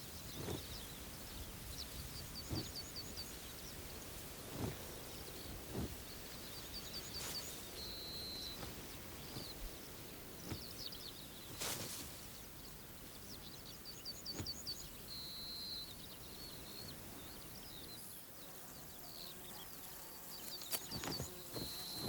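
Outdoor countryside ambience with a small songbird repeating the same phrase every few seconds: a quick run of short high notes ending in a brief held note. A few soft knocks or rustles break in now and then.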